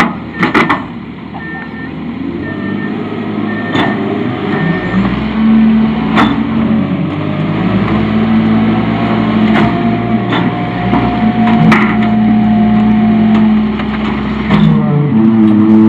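Freightliner FL80 rear-loader truck's engine revving up and holding under load as its packer crushes tree branches, with the wood cracking and snapping sharply several times.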